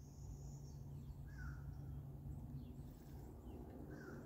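Faint outdoor ambience: a few short bird calls, two of them about a second and a half in and near the end, over a low steady hum.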